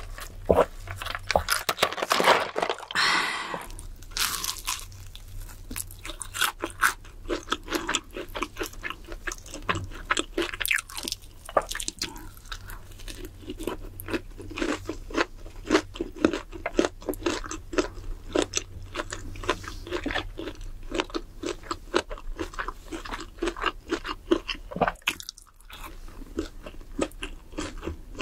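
Close-miked slurping of a drink through a straw for the first few seconds, then steady crunchy chewing of french fries: a dense run of crisp crackles, with a short pause about 25 seconds in.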